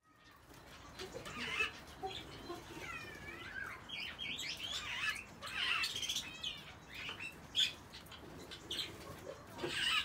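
Aviary birds calling: a run of chattering, squealing calls with quick rising and falling notes, and a few short sharp sounds among them.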